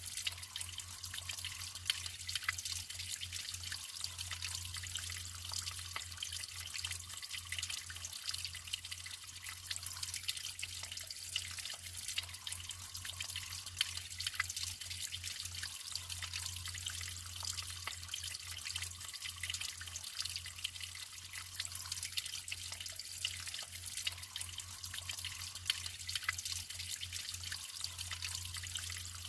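Water trickling and splashing steadily, full of small drips and splashes, with a low steady hum underneath.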